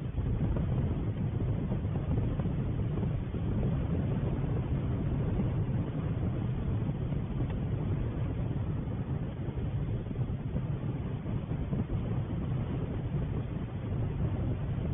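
Steady low rumbling noise with no distinct events: no calls, splashes or voices stand out.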